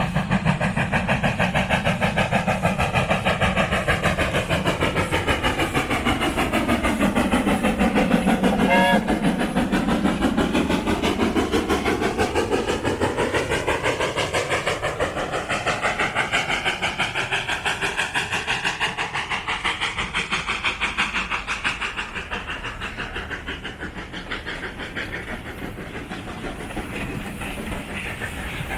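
Steam locomotive working hard up a steep gradient with steady, rapid exhaust beats as it passes close by. The sound is loudest about nine seconds in, then eases off as it draws away.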